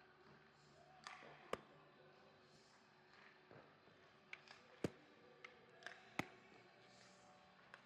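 Scattered sharp clacks of hockey sticks and puck on the ice, three louder ones about a second and a half, five and six seconds in, over a faint steady rink hum.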